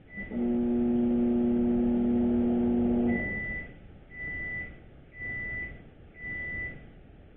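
Microwave oven running a three-second test: a short keypad beep, then a loud steady electrical hum from the oven's high-voltage transformer for about three seconds. It stops, followed by four high beeps about a second apart marking the end of the cycle.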